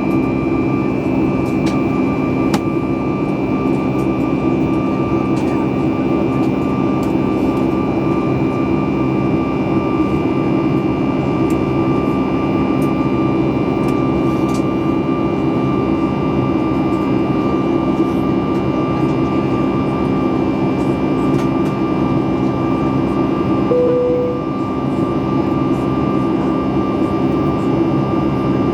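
Steady cabin noise of a Boeing 737 MAX 8 in flight: the CFM LEAP-1B jet engines and airflow making an even roar with constant high whines. About 24 seconds in, a brief single tone sounds over it.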